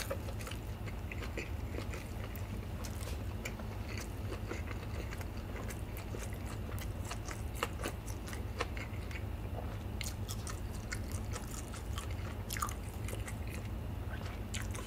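Close-miked chewing of a mouthful of gimbap (seaweed-wrapped rice roll), with many soft, wet mouth clicks scattered through.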